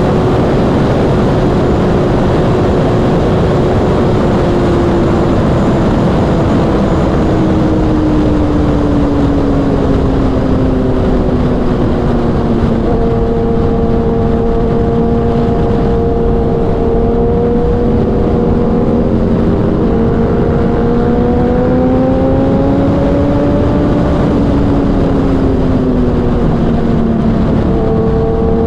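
Inline-four sport-bike engine (Kawasaki ZX6R with a Racefit Growler exhaust) running at highway speed under heavy wind rush. Its note falls slowly over the first half and then holds. About halfway through, a second, higher engine note joins and rises and falls alongside it.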